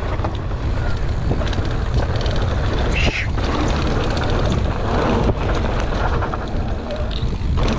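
Wind buffeting the microphone during a mountain-bike descent, over the noise of tyres on the trail and scattered knocks and rattles from the bike over bumps.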